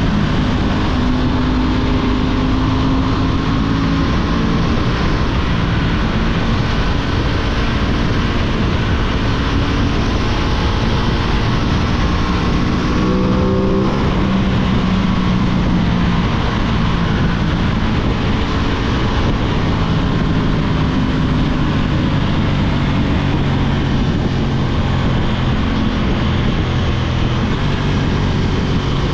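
Aprilia 660 parallel-twin motorcycle engine running under way, its note shifting with the throttle, with a rising rev about halfway through that breaks off sharply, over a constant noisy rush.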